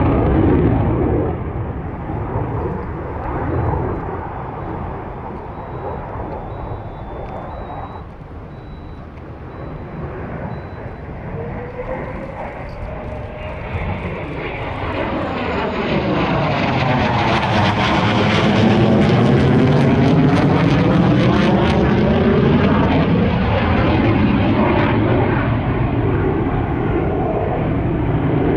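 Jet aircraft flying past: the engine noise dips, then swells over several seconds to a loud peak about two-thirds of the way through with a sweeping, phasing sound as it passes overhead, and stays loud as it moves away.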